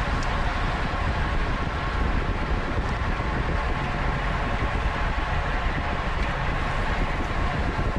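Steady wind rush and rumble on the microphone of a camera riding along on a racing bicycle at speed, with a few faint ticks.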